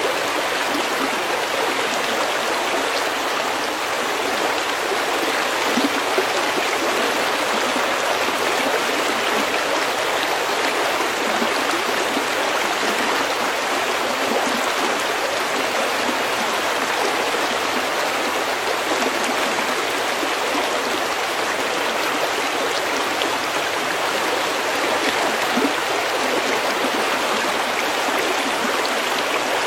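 Stream water running over pebbles, a steady, unbroken rush with no pauses.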